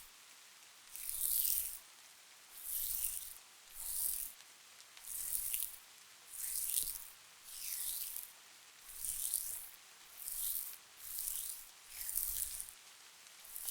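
Hands massaging a creamy face mask, about ten slow, even rubbing strokes, roughly one every second and a half, each a soft, wet swish.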